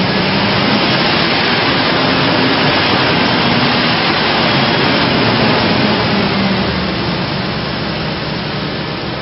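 Ford 5.4-litre V8 engine running steadily, a loud even rush with a low hum under it, easing off a little near the end.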